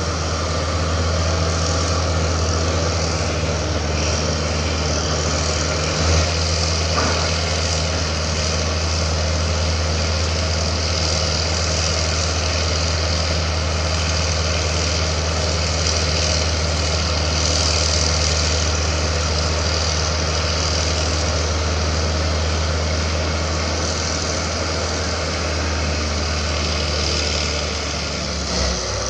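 Heavy diesel engines of a CAT D6G crawler bulldozer and a Hitachi Zaxis 200-5G excavator running steadily with a deep hum, and one knock about six seconds in.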